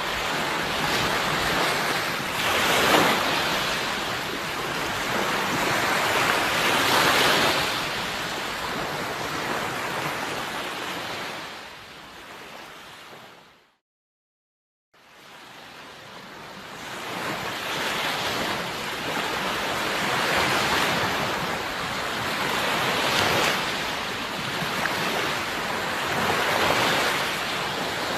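Sea waves breaking and washing on a shore, swelling every few seconds. About halfway through, the sound fades out to a second of silence and fades back in, an edit joint in the recording.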